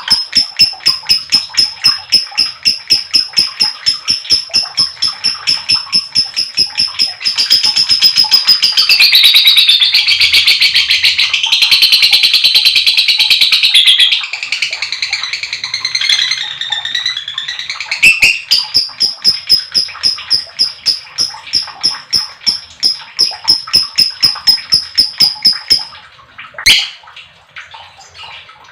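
Lovebird 'ngekek': a long, fast chattering of sharp high chirps, about four a second. In the middle it runs together for several seconds into one dense unbroken trill, then breaks back into the chirps, ending with a single sharp call.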